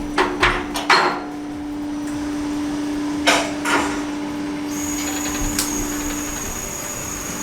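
Sharp knocks and clanks of hand tools on metal exhaust parts during muffler removal: a few quick strikes in the first second, more near the middle, over a steady hum. A high thin whine comes in about halfway.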